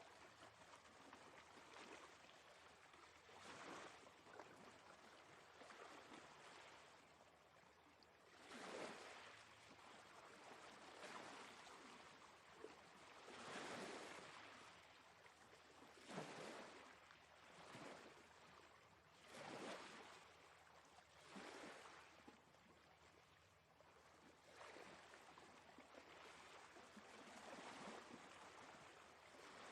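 Faint sea waves washing in, a steady hiss that swells and falls every two to three seconds as each wave breaks.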